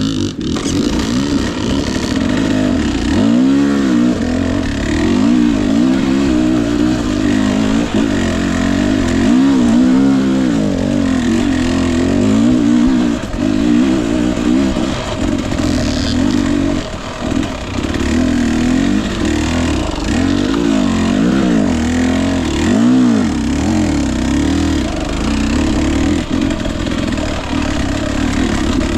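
Husqvarna TE 250i single-cylinder two-stroke dirt bike engine, revving up and dropping back again and again, with a brief dip about seventeen seconds in.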